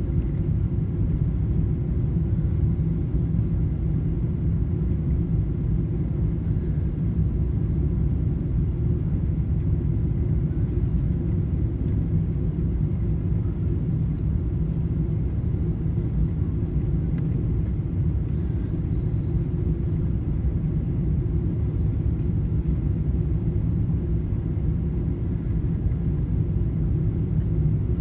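Steady low rumble of a Boeing 777-300 airliner, even in level throughout.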